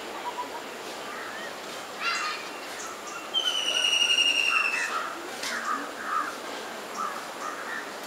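Birds calling: a short, fast trill about two seconds in, then a clear whistle held for over a second and falling slightly, with softer chirps throughout.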